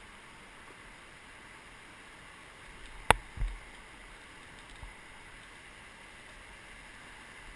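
Steady rush of river water, with a sharp click about three seconds in, followed at once by a dull thump and later a faint knock.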